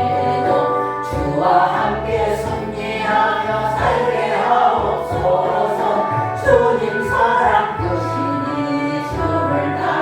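Church congregation singing a slow hymn together, over accompaniment that holds long, steady low bass notes.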